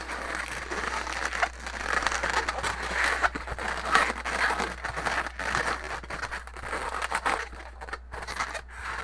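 Latex modelling balloons rubbing against each other and against the hands as they are twisted, an irregular crinkly rustle with many small clicks.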